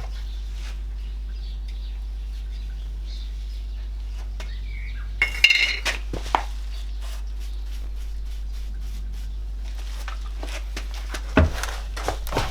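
Short metallic clinks and taps in two bursts, about five seconds in and again near the end, over a steady low hum.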